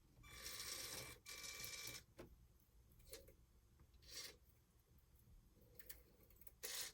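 Small Lego Power Functions electric motor whirring in two short runs of about a second each, followed by a few faint clicks of handling.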